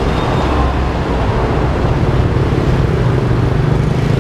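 Road traffic: vehicle engines running with a steady low hum and rumble.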